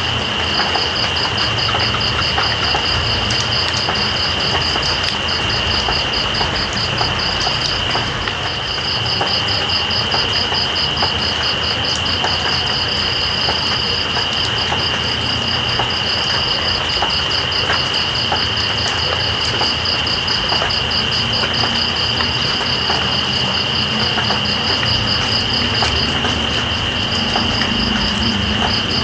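Steady rain with night insects: one trills without a break while another chirps in a fast, even pulse, several chirps a second, pausing briefly near the end.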